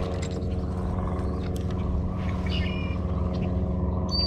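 Steady low drone of a running motor, with a faint short chirp about halfway through and a quick falling whistle near the end.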